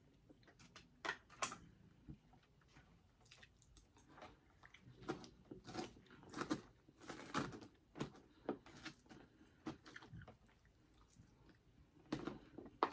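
Close-up chewing and biting of crunchy food, with irregular crisp crunches and wet mouth sounds, busiest in the middle of the stretch.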